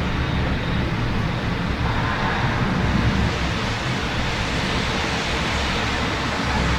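Rainy city ambience: steady rain and traffic noise with a continuous low rumble underneath.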